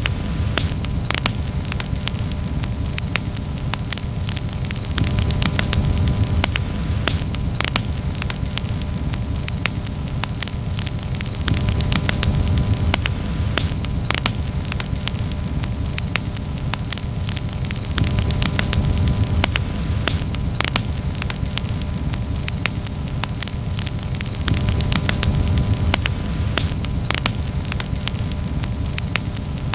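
Campfire crackling with a dense, irregular run of sharp pops and snaps over a low rumble that swells and eases every few seconds.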